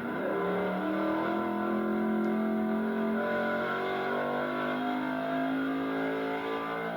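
Altered gas pulling truck's engine running hard at high revs under load, its pitch climbing slowly as it pulls the sled.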